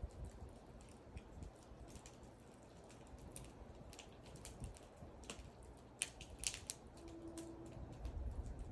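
Wood fire crackling: scattered sharp pops and snaps from the burning wood, with a quick cluster of louder pops about six seconds in.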